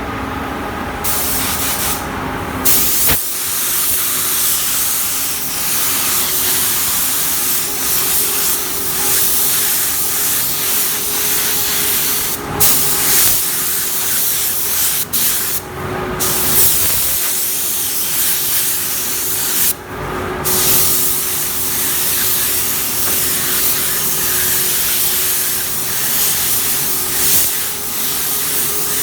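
Paint spray gun spraying clear coat, a steady loud hiss of air and paint. The trigger is released briefly about a second in and again several times in the middle, with a faint steady hum underneath.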